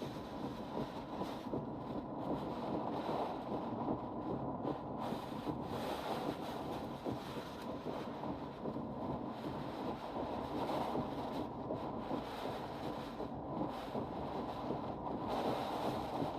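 Steady rush of hurricane wind and rain, surging in gusts, with wind buffeting the microphone. A faint steady tone runs underneath.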